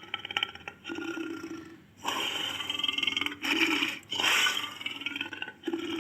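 A Barbary lion growling in a run of about five rough, pulsing calls, each about a second long, with short breaks between them.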